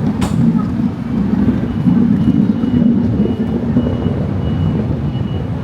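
Low, steady vehicle rumble, with a faint steady high-pitched tone coming in about a second and a half in.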